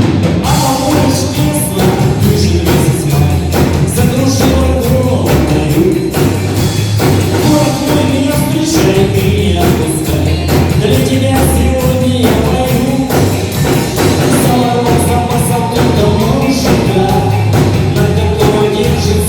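Rock band playing live, with a steady drum beat and bass.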